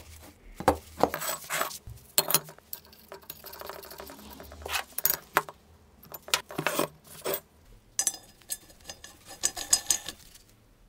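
Metal pieces and tools clinking and knocking together as they are handled, in a series of short, irregular clinks.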